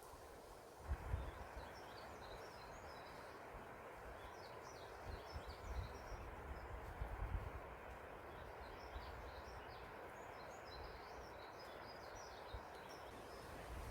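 Small songbirds twittering in quick, high chirping phrases in two spells, over a steady rush of wind through forest trees. Wind gusts on the microphone add a low rumble now and then.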